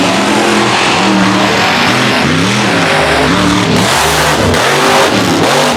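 Mega truck engine revving hard and repeatedly, its pitch climbing and dropping over and over as the throttle is worked, under a steady wash of noise.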